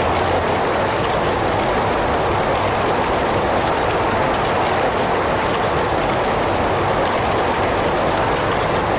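Heavy rain falling steadily, an even rushing hiss without distinct drops or thunder.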